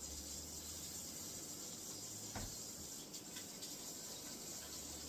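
Kitchen tap running in a steady hiss, with one short knock about two and a half seconds in.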